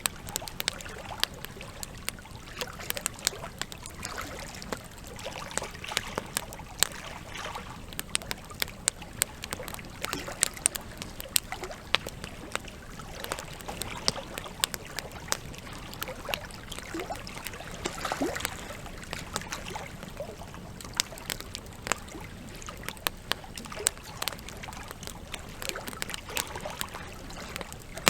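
Wood logs burning in a campfire, crackling with frequent sharp, irregular pops, over a steady trickle of running water.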